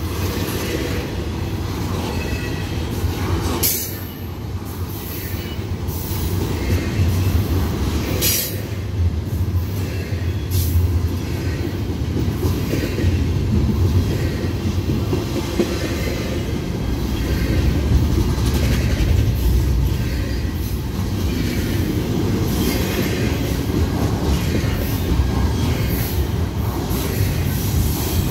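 Double-stack container well cars of a freight train rolling past close by: a steady low rumble of steel wheels on rail, with short high-pitched wheel squeals now and then.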